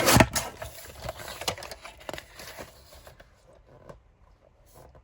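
A sheet of cardstock being handled and positioned for cutting: a knock at the start, then a few seconds of rustling, scraping and small clicks that fade out.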